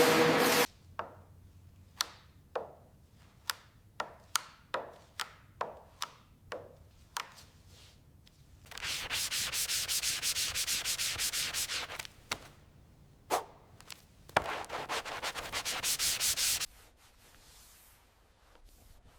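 Sanding by hand. First comes a run of short, separate strokes, about two a second, then two longer stretches of fast, steady rubbing. A loud droning tone cuts off just under a second in.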